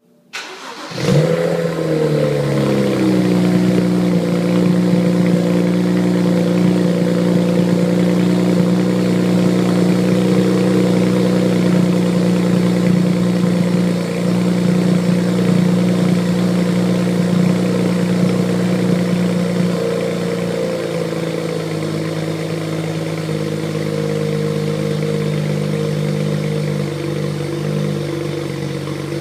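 BMW E90 335i's turbocharged straight-six, breathing through catless downpipes and the stock exhaust, cold starting: it cranks and catches about a second in, flares up, then settles into a steady fast cold idle. Around two-thirds of the way through, the idle steps down slightly lower as it warms.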